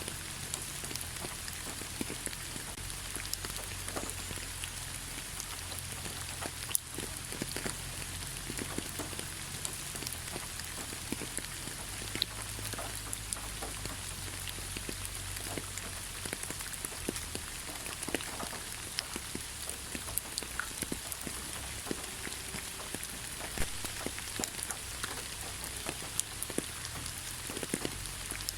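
Gentle rain falling on leaves: a steady patter of many drops ticking, one a little sharper about seven seconds in, over a faint low hum.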